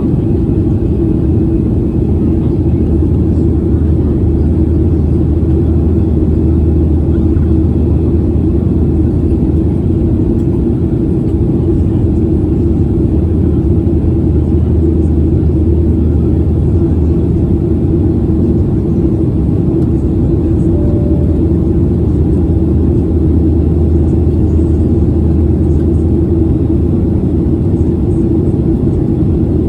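Steady, loud drone of jet engines and rushing air inside an airliner cabin during the climb after takeoff, with a low hum and rumble underneath.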